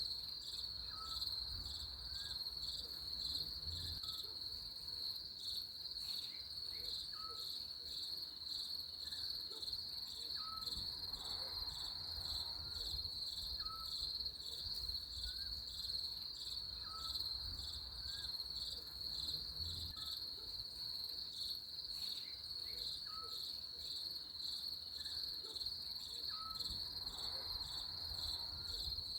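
Crickets chirping in a steady, rapidly pulsing high trill. Faint short chirps repeat about once a second underneath.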